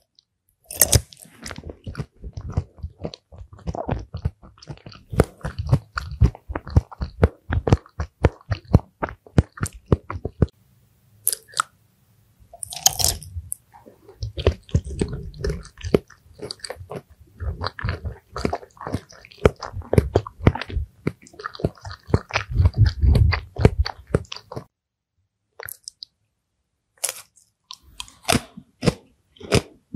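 Close-miked eating: bites and rapid chewing with sharp crunches, in several separate stretches broken by short pauses, the longest about two seconds near the end.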